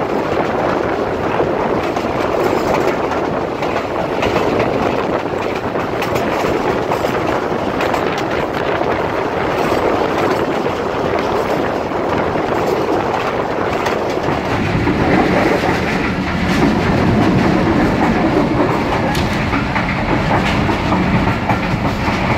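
Train running on the rails, wheels clattering over the rail joints under a steady rumble. The rumble grows deeper about two-thirds of the way through.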